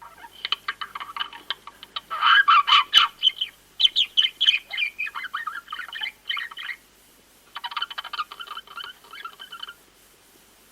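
Chickens calling: a busy run of short, quick chirping and clucking calls, with a brief pause about seven seconds in before a last stretch.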